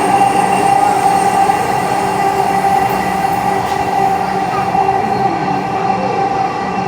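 Metro train running, with a steady whine over the rolling noise of the wheels on the rails.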